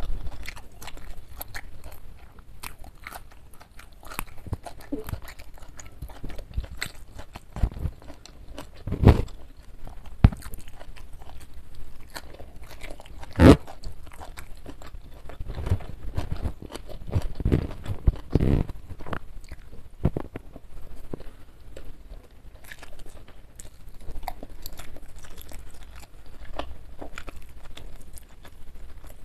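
Close-miked chewing and crunching of a meal of jengkol curry, boiled fern shoots and crispy fried chicken eaten by hand, with wet mouth sounds throughout and a few sharper, louder crunches around the middle.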